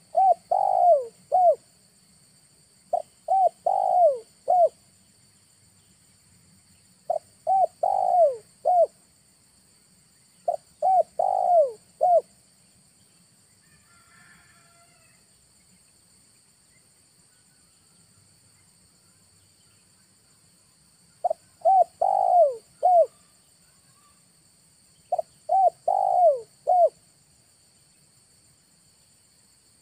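Spotted dove (tekukur) cooing: six phrases of about four falling notes each, coming every three to four seconds with a long pause in the middle. This is a decoy dove's call used to lure wild doves.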